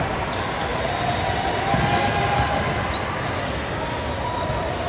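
Basketball game sounds: a basketball bouncing on the court over steady crowd chatter, with occasional short thuds and clicks.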